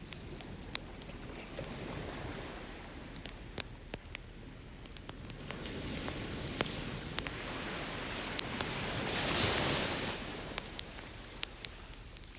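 Campfire crackling with scattered sharp pops, over ocean waves washing ashore; one wave swells loudest about three-quarters of the way through, then draws back.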